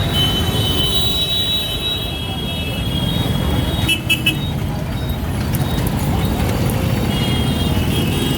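Street traffic heard from a moving electric auto-rickshaw: a steady rumble of wind and road noise, with vehicle horns honking. One horn sounds for the first two seconds or so, there are short beeps about four seconds in, and another horn starts near the end.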